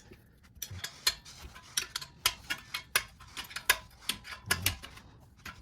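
Irregular sharp metallic clicks and clinks of a hand wrench working on motorcycle exhaust nuts, about two or three a second.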